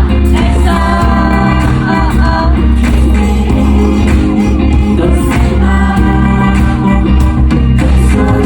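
K-pop song performed live over a concert sound system: singing over a steady, heavy bass line.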